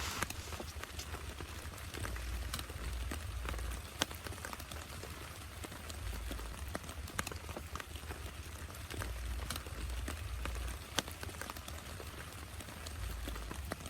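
Rain falling, with scattered individual drops ticking sharply on a surface close by over a steady hiss, and intermittent low rumbles underneath.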